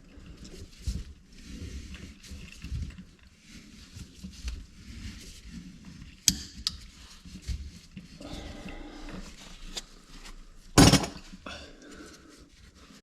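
Tools and plumbing parts being handled under a kitchen sink: irregular clattering and knocking, with a sharp knock about six seconds in and the loudest bang near eleven seconds.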